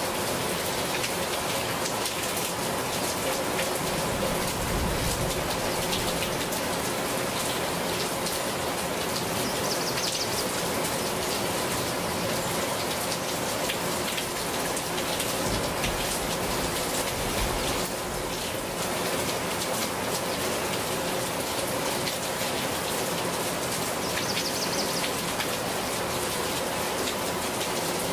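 Steady rain falling, with many individual drop impacts heard through a continuous even hiss.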